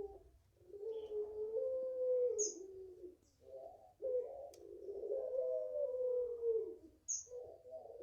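Puter pelung dove cooing in long, low, wavering drawn-out phrases: two long coos with a third starting near the end. Two short high chirps from another small bird cut in.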